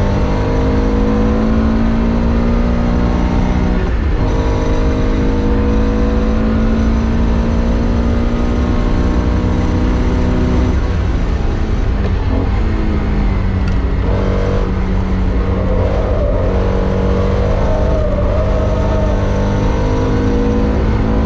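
Porsche classic race car engine heard on board, pulling hard with its pitch climbing steadily through each gear. The pitch breaks and drops at gear changes about 4 seconds in and about 11 seconds in, then climbs again. Road and drivetrain rumble runs underneath throughout.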